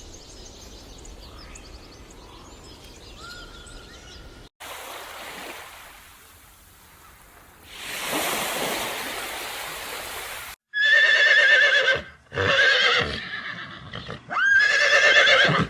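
A horse whinnying three times in the last few seconds, each call loud with a quavering pitch. Before that there is a few seconds of rushing noise like wind or surf, and a quieter stretch with faint chirps.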